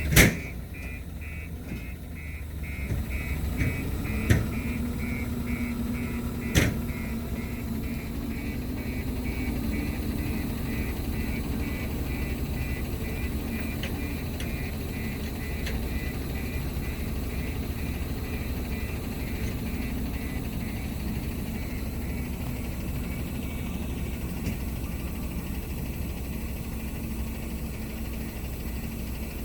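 A 20-tonne road roller's diesel engine running steadily. For the first several seconds a high, rapid pulsing tone sounds over it. Three sharp clicks come in the first seven seconds, the first the loudest.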